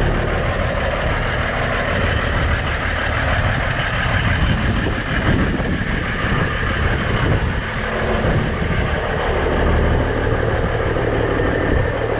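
A big truck engine idling steadily close by, a low, even rumble.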